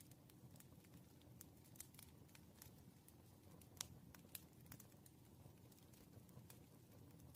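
Faint crackling of a wood fire: irregular sharp pops and snaps, the strongest about four seconds in, over a low steady rumble of the burning logs.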